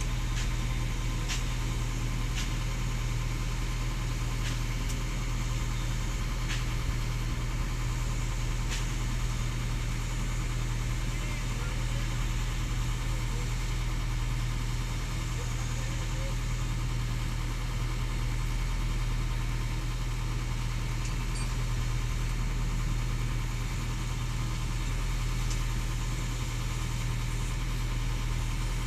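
Excavator diesel engine running steadily with a constant low hum. A few light clicks sound over it in the first several seconds.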